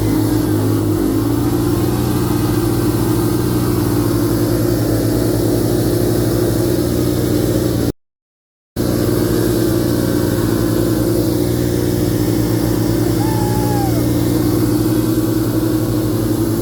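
Vehicle engine running at a steady speed, a constant drone. The sound cuts out completely for under a second about halfway through.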